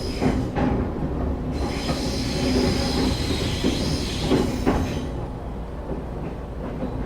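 Inside a train car slowing into a station: a steady low rumble of wheels on rail, with a high squealing hiss from the wheels and brakes for a few seconds in the middle and a few brief knocks from the track.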